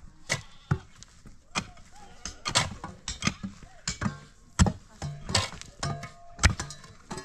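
A run of sharp, irregular knocks and clatters, two or three a second, with a steady pitched sound joining in over the second half.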